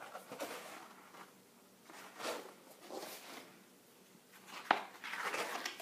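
Soft paper rustling in several short swells as a picture book's pages are handled and turned, with one sharp tap about three-quarters of the way through.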